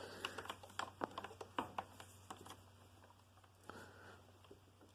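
Faint light clicks and taps, several a second, then near silence with one soft sound near the end.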